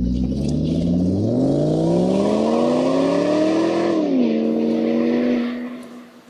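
Electric motor of an oil-film friction-test machine running. Its pitch climbs steadily for about three seconds, drops sharply, holds, then dies away near the end as the machine stops.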